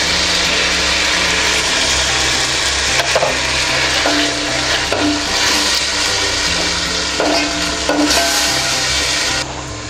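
Onions, tomatoes and green chillies sizzling in oil in a stainless steel pan, with a wooden spatula stirring and now and then scraping the pan. The sizzle cuts off sharply near the end.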